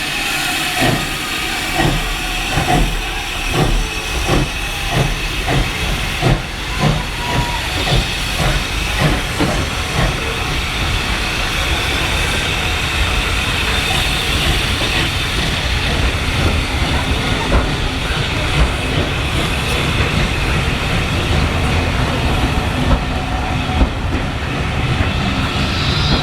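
Steam locomotive pulling away: exhaust chuffs about two a second, slowly quickening over the first ten seconds or so, then merging into a steady hiss and rumble of the moving train.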